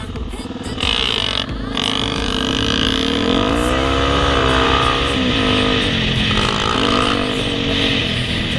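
Off-road racing engine running, its revs climbing and falling back about halfway through.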